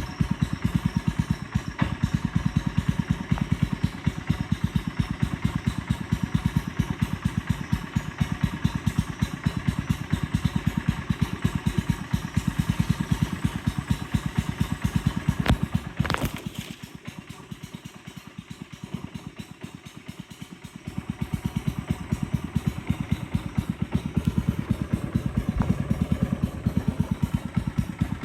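Boat engine running steadily with rapid, even firing pulses. About sixteen seconds in there is a sharp click, and the engine drops back much quieter for around five seconds before picking up again.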